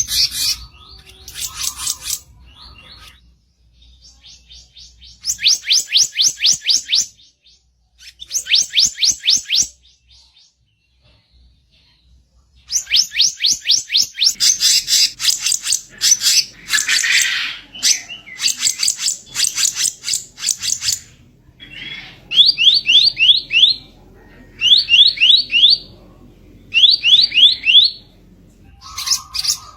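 Kicap ranting (black-naped monarch) giving its harsh song: bursts of rapid, evenly repeated high notes a second or two long, separated by short pauses, with a denser, rougher stretch in the middle.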